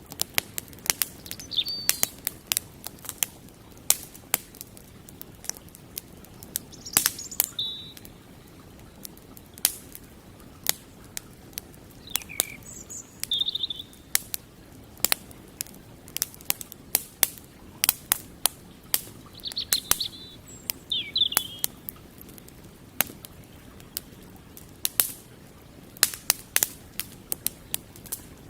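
Wood campfire crackling, with sharp, irregular snaps and pops. Birds chirp briefly a few times.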